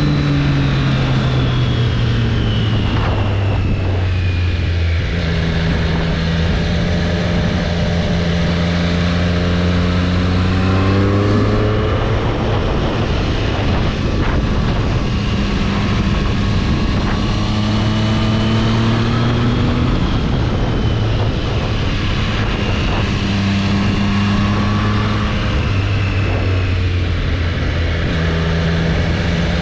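2022 Triumph Street Triple 765 RS's 765 cc inline three-cylinder engine under way. Its note drops as the throttle closes, holds steady at cruising revs, and climbs again under acceleration, several times over, with a constant rush of noise underneath.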